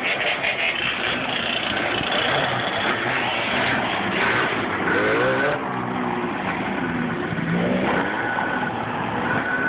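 Off-road vehicle engine revving up and down as it is ridden, its pitch rising and falling several times.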